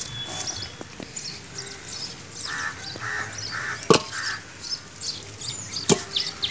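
Small birds chirping, with a louder bird call repeated four times in quick succession mid-way. Two sharp snaps come about four and six seconds in.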